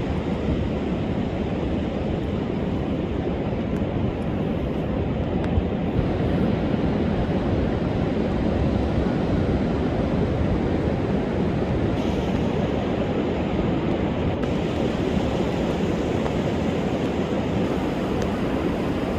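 Rough sea surf breaking continuously onto the beach, a steady deep rushing roar whipped up by gale-force wind, with some wind noise on the microphone.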